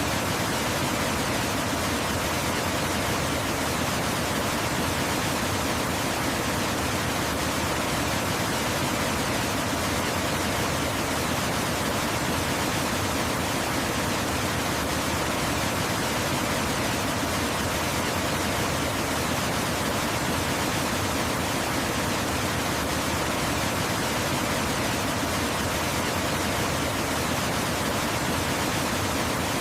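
Waterfall: a steady, unbroken rush of falling water at an even level, with nothing else standing out.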